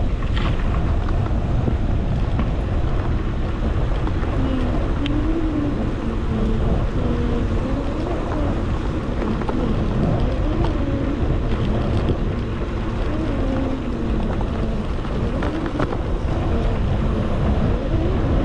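Wind buffeting the microphone of a moving bicycle rider, a steady low rumble. Faint wavering tones drift through it in the middle.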